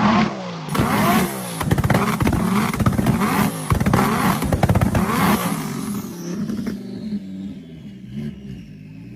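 Turbocharged car on anti-lag, its engine revving with rapid bangs and pops from the exhaust. The sound dies away over the last few seconds.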